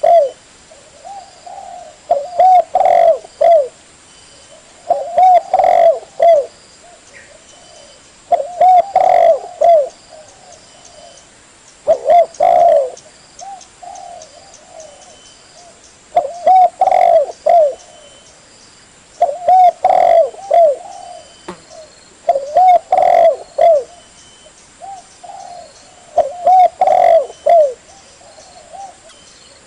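Spotted dove (tekukur) cooing: phrases of several short, low coos repeated about every three to four seconds.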